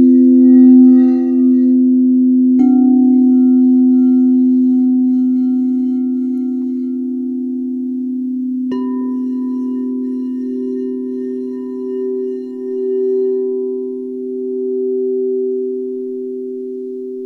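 Singing bowls ringing, with a fresh strike about two and a half seconds in and another about nine seconds in. The low tones hold and waver in level as they slowly fade.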